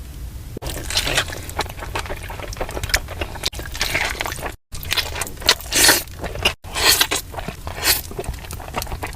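Close-miked eating: crunching and wet, squishy chewing of crispy fried chicken and saucy ramen noodles, in short clips cut together, with the sound dropping out abruptly twice.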